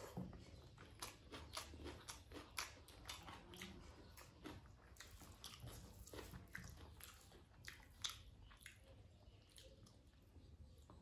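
Chewing a mouthful of crisp diced cucumber salad close to the microphone: many quick, irregular crunches.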